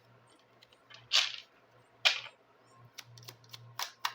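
A deck of fortune-telling cards being handled: two short, sharp card snaps about a second apart, followed by a few lighter clicks.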